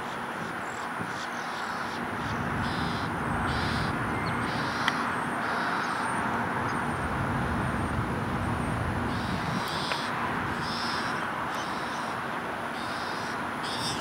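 Short, high bird calls repeating about once a second, pausing for a few seconds midway, over a steady outdoor rumble.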